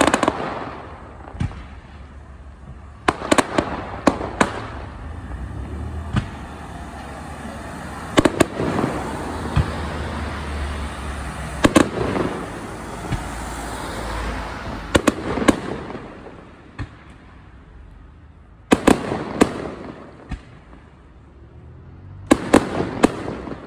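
Aerial fireworks bursting overhead: clusters of sharp bangs every few seconds, with dense crackling between them in the middle stretch.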